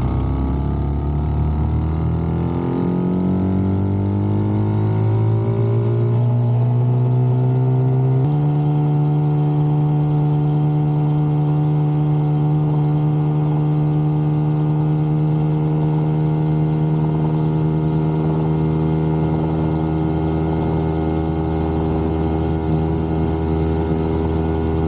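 Dax mini motorcycle's small single-cylinder engine at full throttle. Its pitch climbs steadily for about eight seconds, then holds high and steady at top speed.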